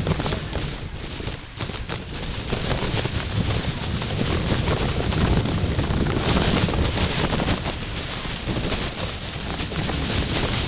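Wind rumbling and buffeting on the microphone, in uneven gusts, with a few faint clicks in the first couple of seconds.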